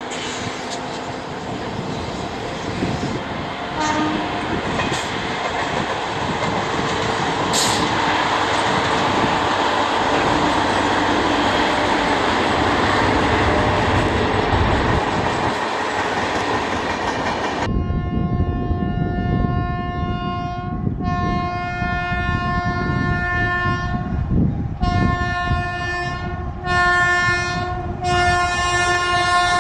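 An express train hauled by a WAP-7 electric locomotive passing close at speed: a steady rush of wheel and rail noise. From a little past halfway, the multi-tone air horn of an approaching WAP-7 electric locomotive sounds in a run of about five blasts of differing length.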